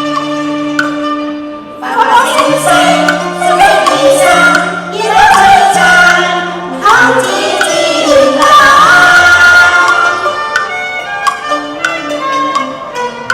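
Cantonese opera song with its traditional instrumental ensemble: a sung passage comes in about two seconds in and runs to about ten seconds, then the instruments carry on alone with sharp percussion taps.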